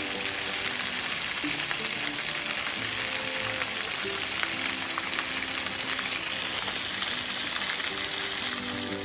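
Steady hiss of rushing water from a small waterfall or cascade, with quiet background music underneath.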